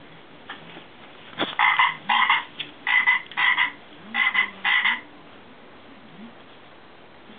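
Dogs' frog toy giving out croaks: six short croaks in three pairs, over about three and a half seconds.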